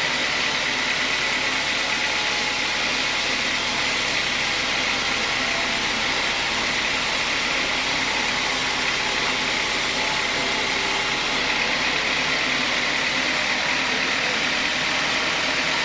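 Sawmill saw running steadily: a constant loud hiss with a high whine, unbroken throughout.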